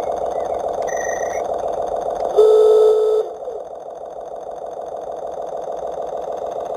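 Garden-railway model rail bus's diesel engine sound running steadily, with a short high beep about a second in, then a loud horn blast of under a second. After the horn the engine sound drops away and slowly builds again as the rail bus moves off.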